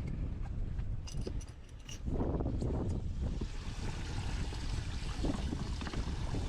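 Strong wind buffeting the microphone as a steady low rumble, over the wash of choppy water, with a few light clicks about a second in.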